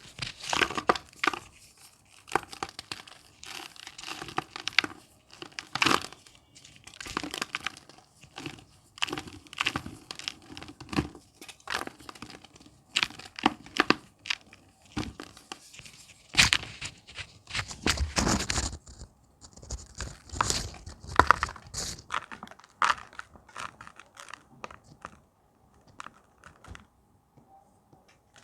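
Reformed blocks of gym chalk being crushed and crumbled by hand: an irregular run of dry crunches and crumbling, heaviest a little past the middle and thinning out near the end.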